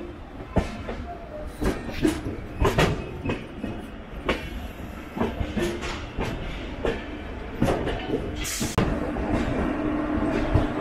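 Passenger train running on the track, its wheels knocking irregularly over rail joints and points over a steady rumble. A brief hiss comes near the end, and a steady hum sets in.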